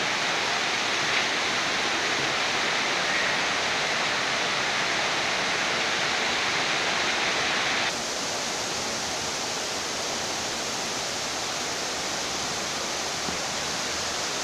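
Heavy rain pouring down, a dense steady hiss that drops a little in level about halfway through.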